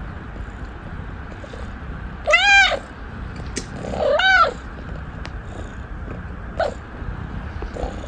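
A cat meowing to beg: two drawn-out meows about two seconds apart, each rising then falling in pitch, then a short, quieter call near the end.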